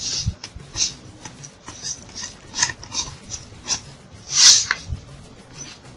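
Plastic bottle bird feeder being handled: a string of short scratchy rubbing and scraping sounds, with one louder hissing scrape about four and a half seconds in.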